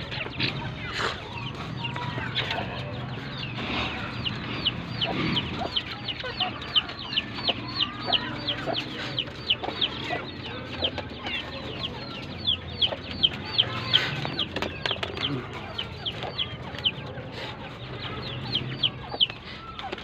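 Chicks peeping: a steady run of short, high, falling chirps, two or three a second, with a few others calling underneath.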